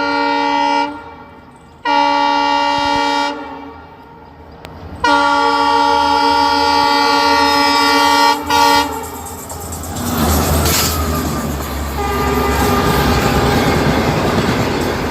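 Train horn sounding in blasts: one ending about a second in, another about two seconds in, a long blast from about five to eight seconds, and a short toot right after. Then the train runs on with a steady rumbling clatter.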